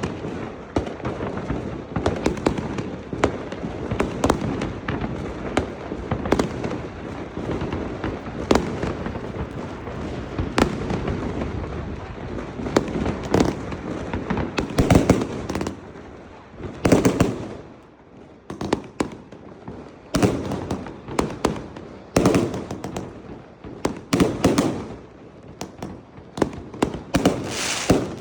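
Fireworks going off in a dense, continuous barrage of bangs and crackling. About halfway through it breaks into separate volleys of bangs with short pauses between them.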